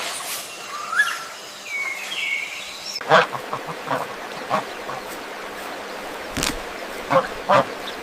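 Birds calling: a few sliding chirps at first, then, after an abrupt change about three seconds in, a run of short, separate calls from farmyard fowl.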